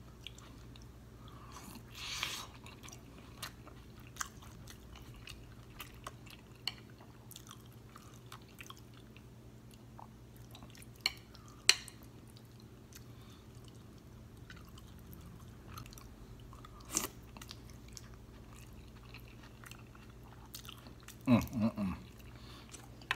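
Close-miked chewing and wet mouth sounds of eating a sauce-drenched boiled potato, with scattered sharp clicks and smacks. A short low hum comes near the end.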